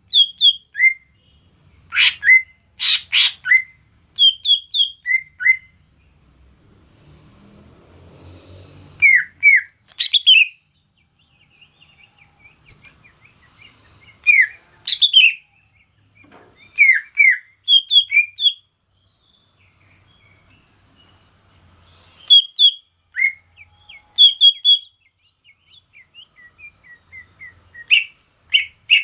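Greater green leafbird (cucak ijo) calling: short, sharp whistled chirps, many sliding down in pitch, in quick clusters of two to five notes separated by pauses of a few seconds. A steady high hiss runs underneath and drops out briefly twice.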